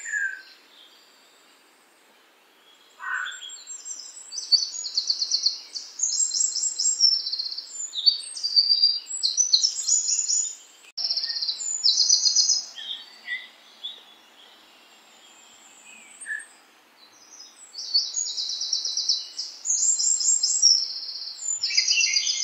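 Songbirds singing: bouts of high, rapid trilled phrases with pauses of a few seconds between them.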